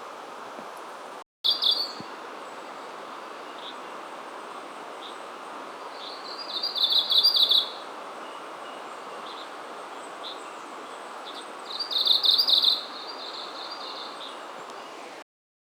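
Japanese leaf warbler (Phylloscopus xanthodryas) singing: two songs of rapid high notes, each lasting about one and a half seconds, some five seconds apart, with a few short call notes between them, over a steady background hiss.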